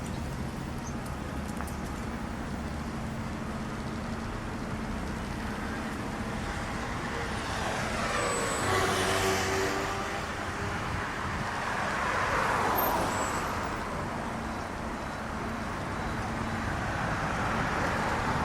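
Road traffic going by: a steady hum of passing vehicles, with one vehicle swelling past and falling in pitch about nine seconds in and another passing about three seconds later.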